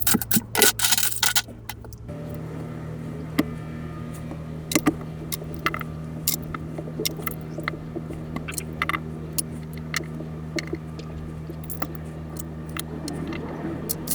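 Small electric motor from a battery-powered plush toy poodle running with a steady low hum. Handling of its small plastic parts makes scattered clicks over it. At the start, a second or so of rapid clicking and rattling comes before the hum shifts to a steadier, higher note.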